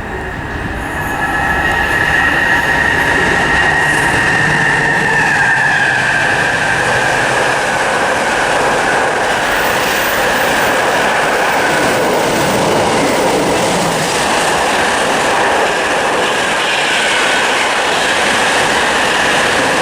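Electric passenger train running through the station without stopping. A loud, steady rush of wheel-on-rail noise with a high whine builds over the first two seconds and then holds for the rest of the pass.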